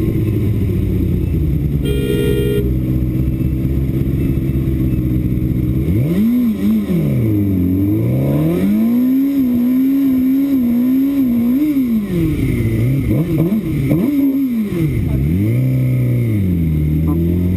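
Motorcycle engine running steadily, then from about six seconds in revved hard up and down several times and held at high revs for a few seconds before settling back to a steady run near the end. A short car horn honk about two seconds in.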